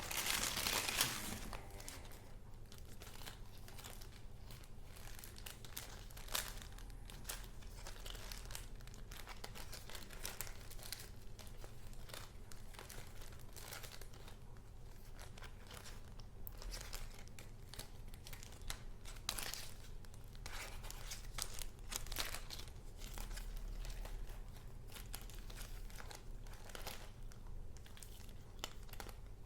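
Paper goods being handled: short crinkling and rustling sounds that come and go throughout, with a louder rustle about a second in.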